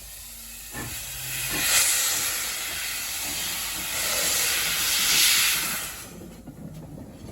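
Steam locomotive letting off steam: a loud hiss that swells twice and dies away about six seconds in.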